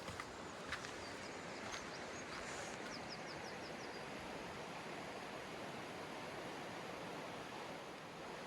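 Steady rushing of a river. A few footsteps click on river rocks in the first two seconds. A bird sings a short song of quick high chirps between about one and three seconds in, ending in a rapid run of falling notes.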